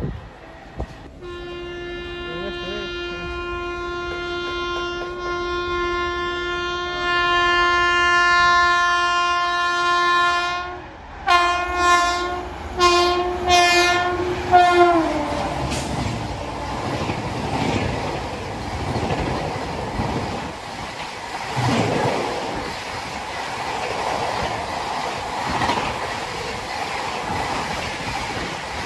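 Indian Railways WAP-7 electric locomotive's air horn sounding one long blast of about ten seconds, then a string of short toots as it approaches at speed. Then the train rushes past, its coaches' wheels clattering over the rail joints.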